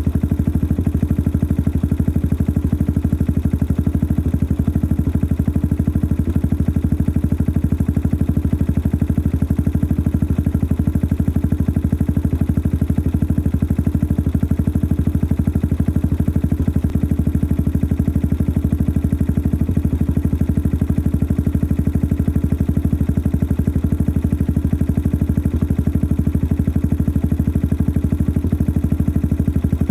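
Yamaha XT 600 (43F) single-cylinder four-stroke engine idling steadily through its modified stock exhaust, a noisy engine with a fast, even run of exhaust pulses.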